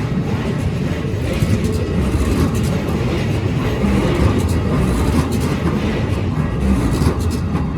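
Keikyu Line electric train running past at the level crossing: a steady low rumble of wheels on rail, with faint scattered clicks.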